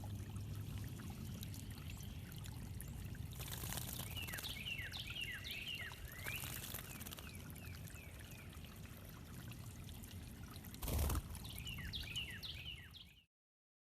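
Water trickling and pouring over stones in a garden water feature, while a songbird sings three bursts of quick, falling notes. A single loud low thump comes about eleven seconds in, and the sound cuts off abruptly near the end.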